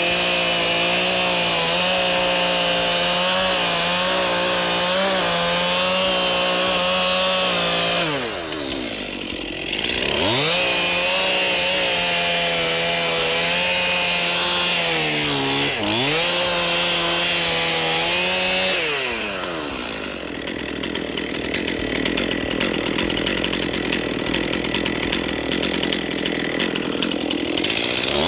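A two-stroke chainsaw is cutting into a large tree trunk at full throttle. About eight seconds in it drops off and revs back up, and it dips briefly near the middle. From about two-thirds of the way through it runs lower and rougher for several seconds, then revs up again near the end.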